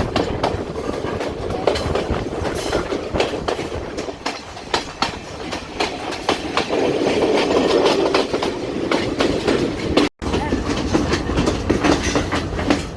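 Podi Menike passenger train running on the track: a steady rumble with many irregular wheel clicks and clacks. The sound drops out for an instant about ten seconds in.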